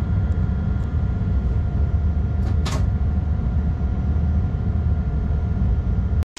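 Steady low rumble of a freight train running, with a faint steady hum over it and a brief high squeak about two and a half seconds in. The sound cuts off just before the end.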